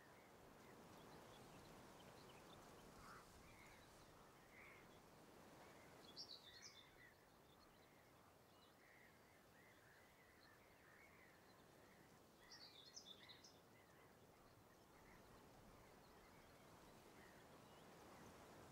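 Faint outdoor ambience: small birds chirping now and then over a quiet steady hiss, with two brief flurries of higher, sharper chirps, about six seconds in and again about twelve seconds in.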